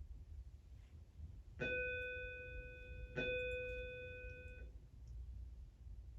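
A chime struck twice on the same note, the strikes about a second and a half apart, the second ringing on for about a second and a half before dying away.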